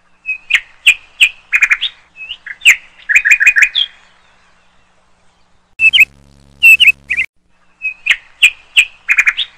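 Birds chirping in quick, loud runs of short notes, the same run of chirps coming round again, as in a looped sound track. A low steady hum sits under the chirps for a second or so twice.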